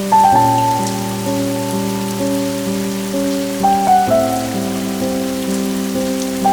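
Soft, slow melodic music of held, overlapping notes, with a steady hiss of falling rain underneath. New notes come in with small accents just after the start and again between three and four seconds in.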